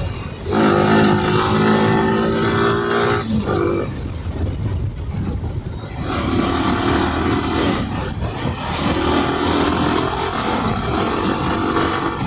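Yamaha R15M's single-cylinder four-stroke engine running under throttle while riding, with wind rushing past. Its note rises about half a second in, drops away about three seconds in, and picks up again about six seconds in.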